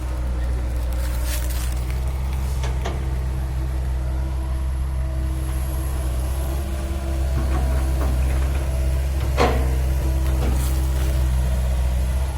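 Heavy diesel engine of earthmoving machinery running steadily, getting louder about seven seconds in, with a few sharp metal clanks, the loudest near the end.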